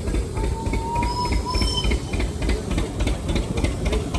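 Steam engine running steadily, an even beat of about four or five strokes a second over a low rumble with hiss. A faint thin tone sounds for about a second and a half near the start.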